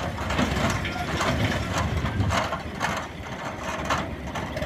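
A tractor engine running under a series of irregular clattering, scraping strokes, about two a second.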